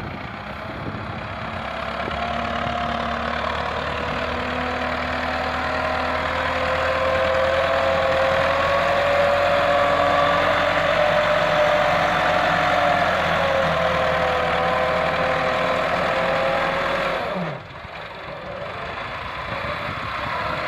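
Massey Ferguson 385 tractor's diesel engine running steadily, getting louder over the first several seconds, with a tone above it that wavers slightly in pitch. The sound drops abruptly a few seconds before the end.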